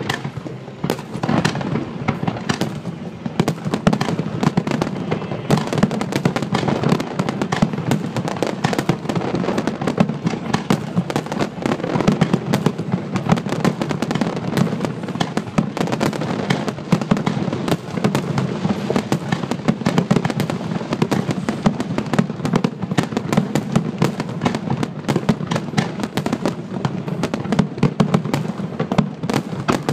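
Fireworks finale barrage: aerial shells bursting in rapid succession, a dense, unbroken run of bangs with no pause.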